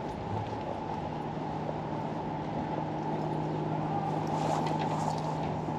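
An engine humming steadily over a dense low rumble of outdoor background noise, the hum setting in just under a second in.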